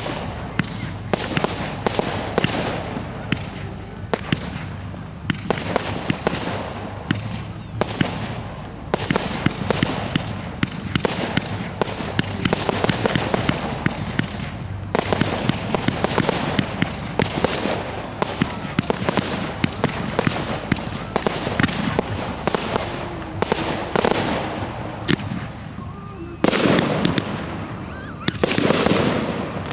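Professional aerial fireworks display: a steady barrage of shell bursts and crackling, with louder, denser volleys near the end.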